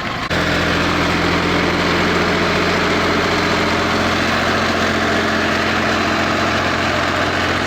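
Eicher tractor's diesel engine running steadily at a low, even speed.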